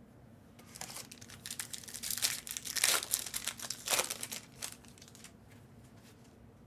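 Crinkling and tearing of a foil trading-card pack wrapper being handled and ripped open, a run of rustles that is loudest in the middle and dies away about five seconds in.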